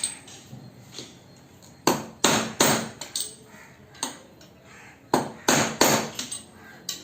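Hammer tapping on a large screwdriver to drive the collar and washer down into a Bajaj Pulsar 150 front fork tube, seating them before the oil seal goes in. Sharp metal taps come in irregular groups, a quick run of about five near the end.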